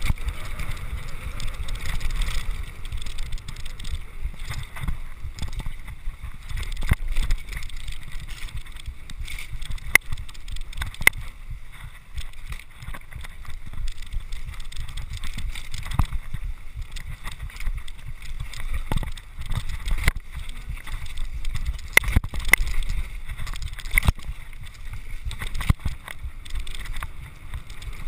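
Mountain bike riding noise on a GoPro: a low rumble of tyres rolling over the trail and wind buffeting the microphone, with frequent sharp clicks and clatters as the bike jolts over bumps.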